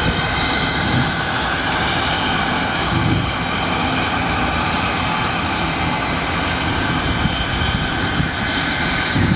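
C57 steam locomotive standing in steam, giving off a steady hissing roar with a thin, steady high whine over it.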